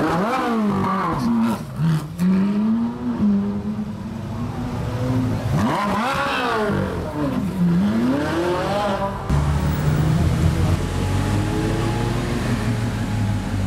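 Supercar engine revved several times, the pitch sweeping up and falling back, then running steadily at a low pitch from about two-thirds of the way through.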